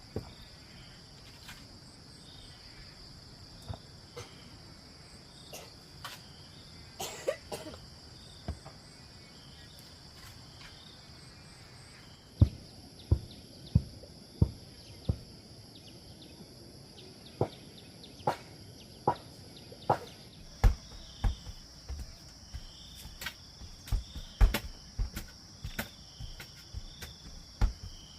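Dull, heavy thuds of a digging tool striking into soil, about one a second, beginning about 12 seconds in after a few scattered knocks. Steady high insect chirring runs throughout.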